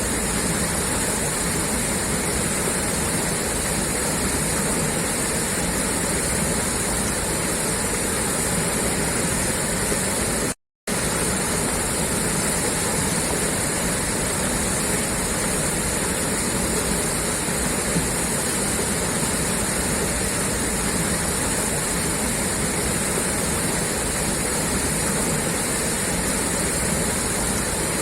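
Water gushing out of a pipeline outlet: a steady, unbroken rushing. It cuts out completely for a split second about ten seconds in.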